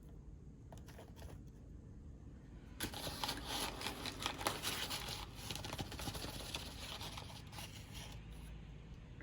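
Crinkling, rustling handling noise with many small clicks, starting about three seconds in and dying away after about five seconds.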